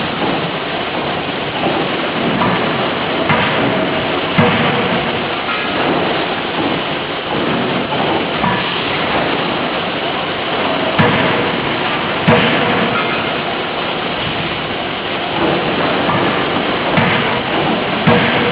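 50 kJ closed-die forging hammer at work: several sharp, irregularly spaced blows over steady, loud forge-shop noise.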